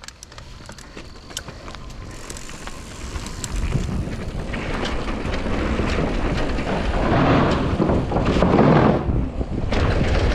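Wind buffeting an action camera's microphone, growing steadily louder as a downhill mountain bike gathers speed. The bike's tyres rumble over the dirt, and sharp clicks and rattles come from the bike over rough ground.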